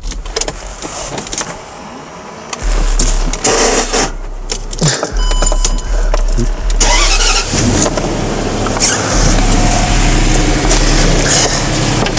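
Range Rover's supercharged petrol engine running steadily with the supercharger drive belt removed and no knock: the knock was traced to the supercharger, not the engine itself. About halfway through the engine note grows stronger, and there is low rumbling and some handling noise on the microphone.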